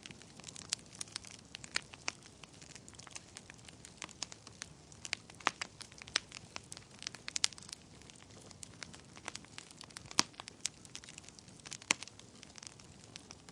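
Wood fire crackling in a fireplace: irregular sharp pops and snaps over a low steady hiss of burning, with a few louder pops scattered through.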